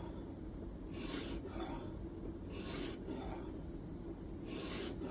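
A 1,000-grit sharpening stone on a guided knife-sharpening system being stroked along the edge of an N690 steel knife blade: repeated raspy scraping passes, a few strong ones with fainter ones between. This is the polishing stage of the edge.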